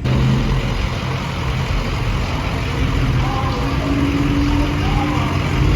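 Motor vehicle engine running steadily with a low hum, with faint voices in the background partway through.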